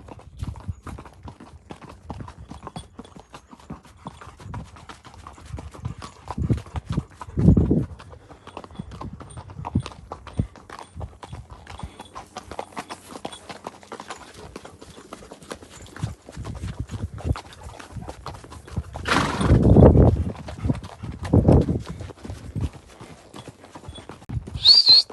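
Steady, rhythmic clip-clop of footfalls on hard ground, with a few louder low rushes of noise along the way and a brief high-pitched sound near the end.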